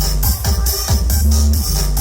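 Electronic dance music with heavy bass and a steady, fast beat, played loud through a large carnival sound system.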